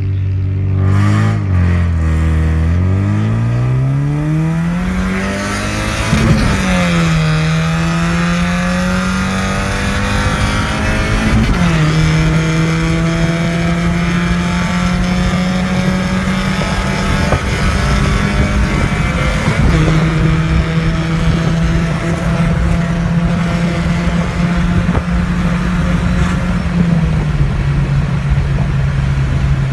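Opel Astra F GSi's four-cylinder engine and exhaust under hard acceleration. The revs climb steadily, drop at a gear change about six seconds in, climb again to a second shift around eleven seconds, then hold steady at cruising speed and ease slightly lower near the end.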